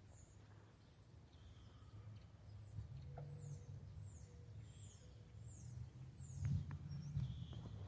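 Faint birdsong: a small bird giving a run of short, high chirps that slide downward, about two a second in the second half, over a low steady rumble.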